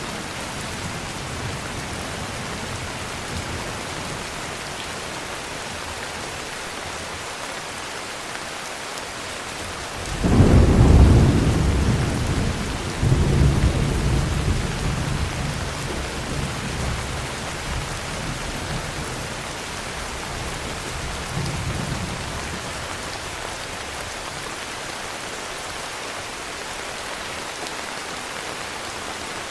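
Heavy rain falling steadily. Thunder rumbles in about a third of the way in, swells again a few seconds later, then dies away. A fainter rumble follows further on.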